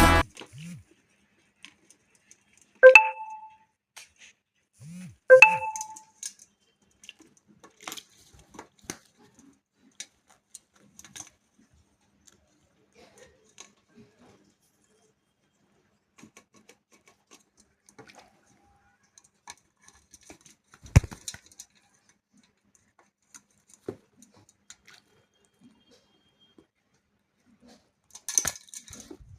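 A parrot gives two short pitched calls a few seconds apart, among scattered faint clicks and taps, with one sharper knock about two-thirds of the way through.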